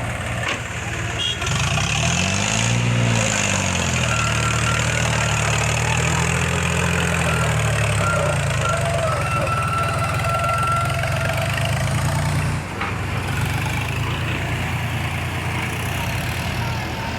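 Eicher 551 tractor's diesel engine running, revved up and back down about two to three seconds in, then running steadily at a slightly raised speed. It eases off and gets a little quieter about twelve and a half seconds in.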